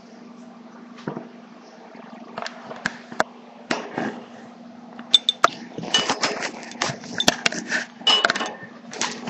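A sun conure pecking and scratching at a Logitech webcam: scattered sharp taps and clicks of its beak, turning into a dense run of scraping and rustling about six seconds in.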